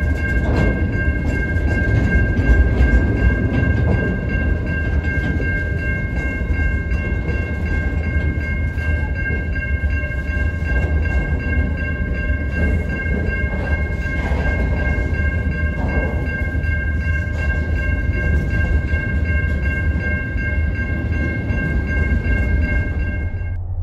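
Intermodal container freight train rolling past close by: a steady heavy rumble and clatter of the wagons' wheels on the rails, with a steady high-pitched whine held over it. The sound cuts off just before the end.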